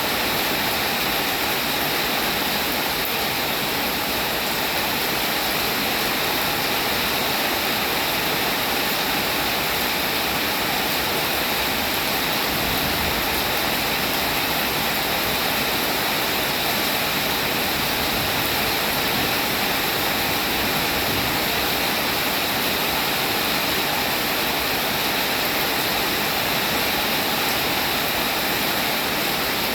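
Steady rain falling, a constant even hiss with no breaks or single drops standing out.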